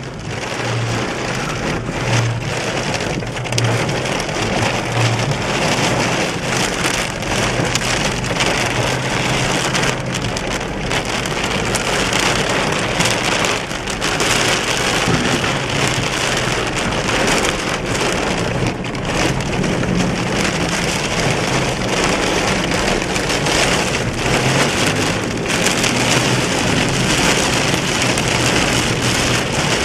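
Heavy rain pouring down steadily in a thunderstorm, a dense patter of drops hitting surfaces, with a low rumble underneath.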